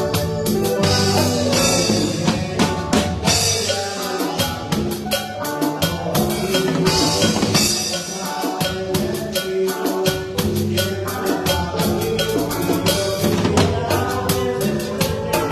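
Band music with a drum kit to the fore: fast, dense strokes on snare and drums over bass and keyboard. The low bass drops out briefly twice in the middle.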